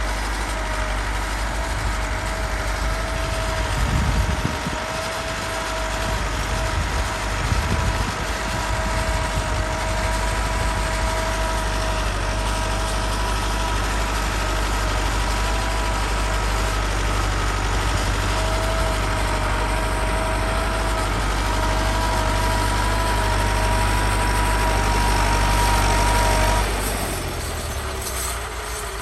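Fiat 480 tractor's diesel engine running steadily with a low rumble and a steady whine above it, swelling louder twice in the first eight seconds. The engine sound drops off sharply about two seconds before the end.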